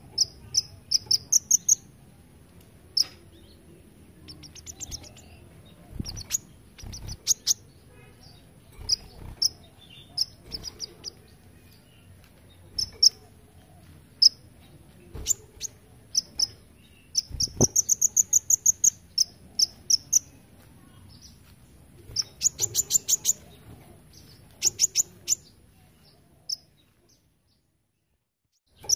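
Kolibri ninja sunbird singing: bursts of rapid, high-pitched trills of evenly repeated notes, the insect-like 'belalang emas' (golden grasshopper) phrase prized by song-contest judges, mixed with single sharp chips. The song breaks off briefly near the end.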